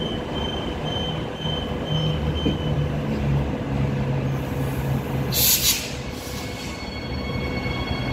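Transperth electric multiple-unit train running at the platform: a steady low rumble with electric motor whine, a short hiss of air about five seconds in, then several steady high whining tones near the end.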